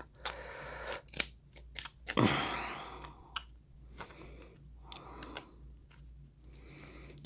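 Scissors cutting open a boiled crab leg's shell: a few sharp snips and cracks, with a longer rasping crunch of shell about two seconds in.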